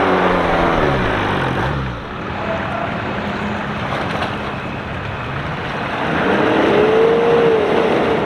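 A Suzuki SJ off-roader's engine in deep mud, its pitch falling as it slows over the first two seconds. Then a Toyota 4x4's engine running as it wades through a water-filled ditch, revving up and back down near the end.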